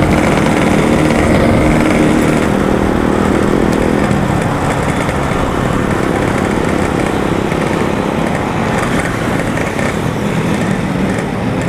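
Yamaha RX-King's two-stroke single-cylinder engine running at low revs as the bike pulls over. Its steady note weakens after about four seconds under road and wind noise.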